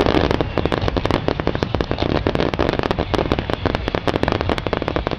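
Fireworks going off in rapid succession: a dense, unbroken crackle of many sharp pops.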